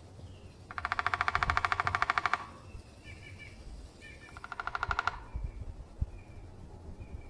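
Downy woodpecker drumming: a fast, even roll of taps on resonant wood. A longer roll of nearly two seconds comes first, then a shorter one of about a second a few seconds later.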